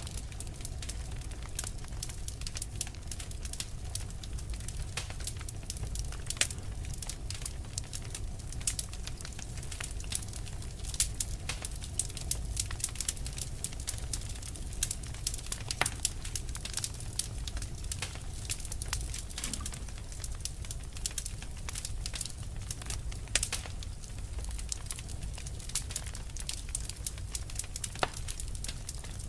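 Wood fire burning with irregular sharp crackles and pops, several a second, over a steady low rumble.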